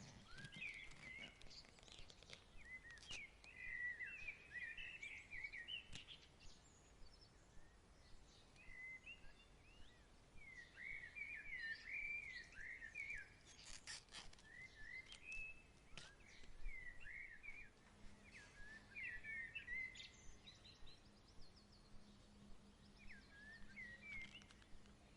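Faint songbirds chirping and warbling in short repeated phrases, with a few soft clicks in between. A low steady hum comes in about two-thirds of the way through.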